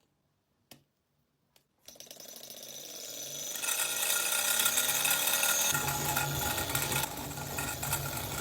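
Small model Stirling engine running: a mechanical whirring and clatter of its moving parts starts about two seconds in, rising in pitch and loudness as it picks up speed, then runs on steadily.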